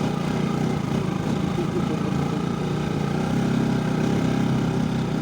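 Motorcycle engine running steadily while being ridden, swelling slightly about two-thirds of the way through.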